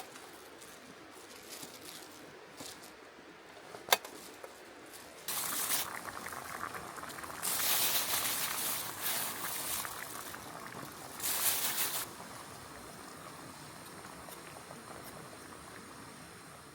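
Liquid being poured in three spells, with a sharp click just before the first.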